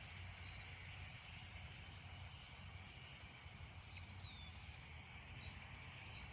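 Faint outdoor riverside ambience: a steady low rumble under a steady high insect drone, with one short falling bird chirp about four seconds in.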